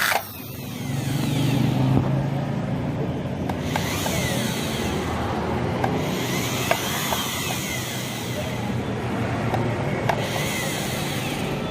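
Portable electric sewing machine running on its freshly serviced motor, with the armature cleaned and new carbon brushes fitted. It speeds up over the first two seconds, then runs steadily with light clicking from the mechanism, turning freely where it used to stick.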